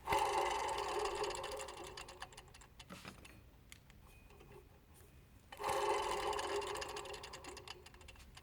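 An accessory-drive belt pulley (idler or tensioner roller) spun by hand, its bearing whirring and coasting down; spun twice, about five and a half seconds apart. It is a bearing being checked for wear, with some noise in it although it turns stiffly.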